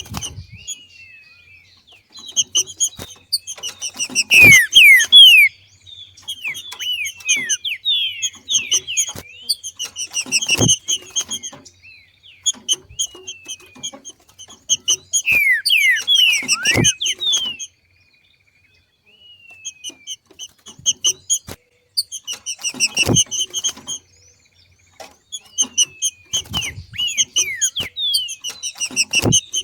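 Female green-winged saltator (trinca-ferro) giving its 'macheado' call: bouts of rapid, repeated short chirps mixed with falling whistled notes, broken by brief pauses. About every six seconds comes a louder burst with a low knock.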